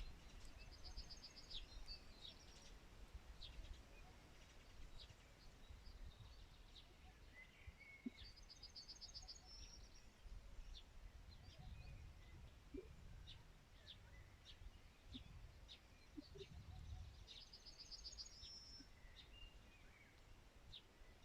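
Songbirds calling faintly. One bird repeats a short, fast trill three times about nine seconds apart, among scattered brief chirps and whistles from others, over a faint steady background noise.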